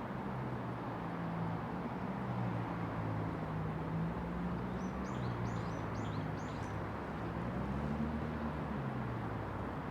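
Steady city traffic din with the low hum of engines slowly rising and falling. A bird gives a quick run of about six high chirps about five seconds in.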